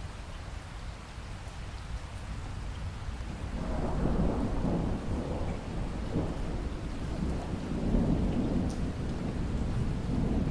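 Steady rain, joined about three and a half seconds in by a low rumble of thunder that grows louder and keeps rolling.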